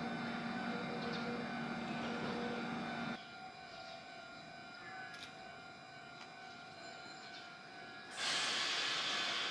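Stationary Hankyu 9300 series electric train humming steadily with several fixed tones. Then comes a quieter steady background, and a loud steady hiss starts about 8 seconds in.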